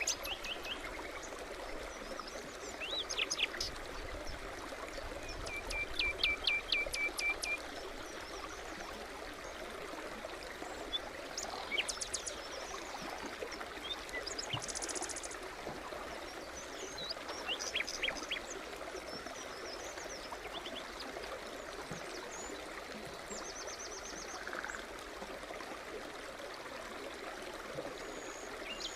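Small forest stream running steadily, with songbirds calling over it. Around six seconds in, one bird gives a quick run of about eight repeated notes; a short buzzy trill comes about halfway through.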